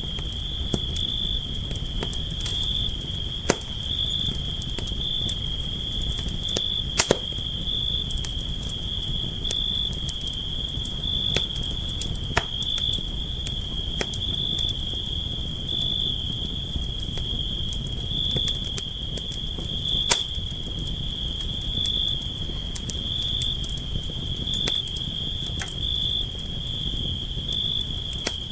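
Campfire crackling, with irregular sharp pops over a low steady rush of burning wood, one pop louder about seven seconds in. Crickets trill steadily throughout.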